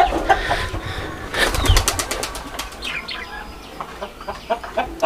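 Pigeons' wings flapping, heard as a run of short, sharp claps at uneven intervals.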